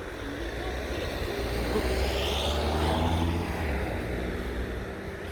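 An engine passing by, its steady hum swelling to a peak about two to three seconds in and then fading away.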